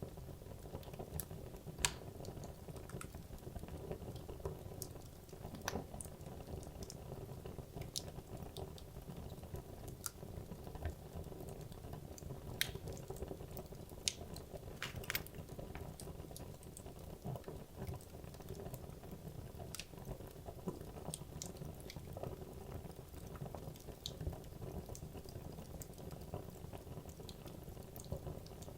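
Wood logs burning in a fireplace: a steady low rumble and hiss of the flames with frequent irregular crackles and sharp pops from the burning wood.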